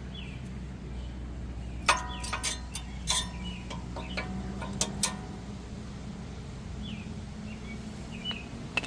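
A run of sharp metallic clinks, some ringing briefly, from brake caliper parts and tools being handled during a caliper slide-pin service, over a steady low hum.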